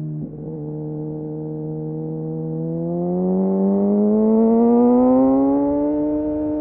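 Kawasaki Ninja motorcycle engine through an Arrow aftermarket exhaust, under way. A brief cut about a quarter second in drops the pitch slightly, like a quickshifted upshift. The engine holds steady, then pulls through the gear with a steadily rising pitch and loudness for about three seconds.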